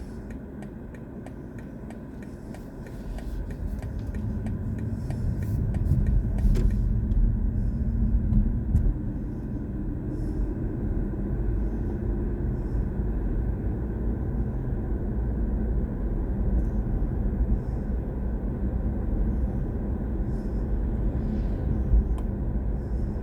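Tyre and road rumble of a BMW i4 M50 electric car on the move, heard from inside the car, growing louder over the first several seconds as it picks up speed and then steady. A regular ticking runs through the first seven seconds or so, then stops.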